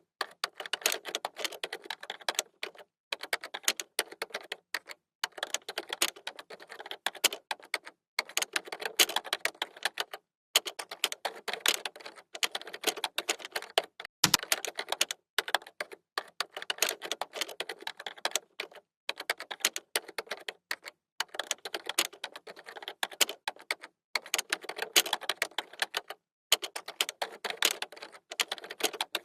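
Typing on a computer keyboard: quick runs of key clicks, each lasting a second or two, broken by short silent pauses, with one heavier key thump about halfway through.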